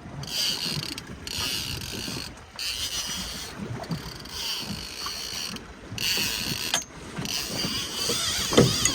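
Fishing reel being cranked while fighting a fish: a high whirring from the reel's gears comes in spells of about a second with short breaks, taking up slack on the line. A low steady rumble from the boat runs underneath.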